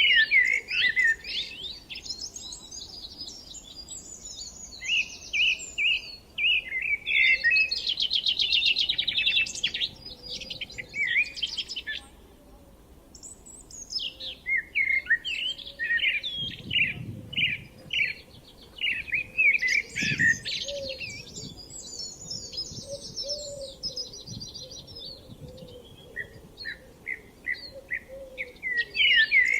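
Songbirds singing in long, varied phrases full of quick trills and chirps, each several seconds long, with a short break near the middle.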